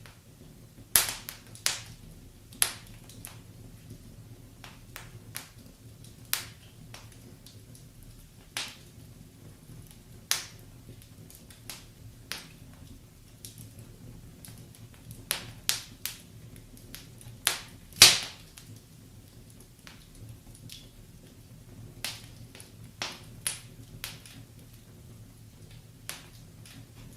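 Wood fire in a fireplace crackling, with irregular sharp pops and snaps over a faint steady low background; the loudest pop comes about two-thirds of the way through.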